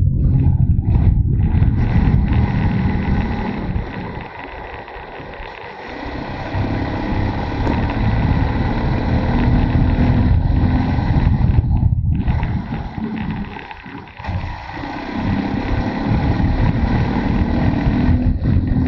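Motorcycle engine running on the move. It drops in level twice, about four seconds in and again about thirteen seconds in, then picks up again.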